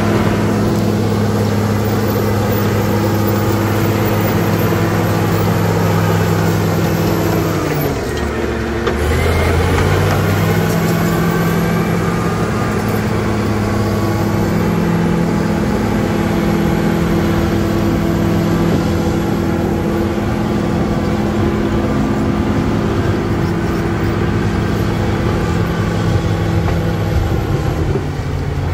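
Caterpillar D7G bulldozer's six-cylinder diesel engine running hard and steady. Its note sags briefly about eight seconds in, comes back up, and drops again near the end.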